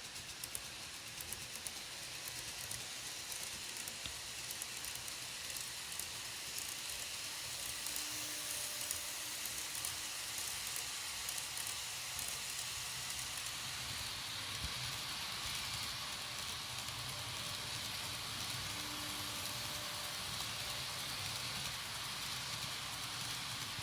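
KATO N-gauge E353 series model train running along the track: a steady hiss-like rolling noise that grows louder about halfway through.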